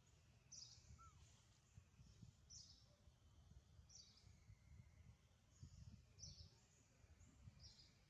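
Faint ambience of a bird chirping over low background noise, one short high chirp every second or two.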